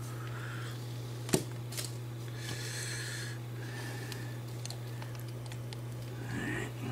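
Faint rubbing and handling noises from hands working on small plastic toy parts, over a steady low hum, with one sharp click about a second in.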